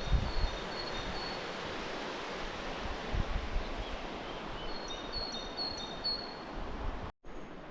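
Outdoor ambience: a steady rushing hiss, with wind buffeting the microphone at the start. A small bird calls in short high chirps, in one run near the start and another about five seconds in. The sound cuts out for a moment near the end.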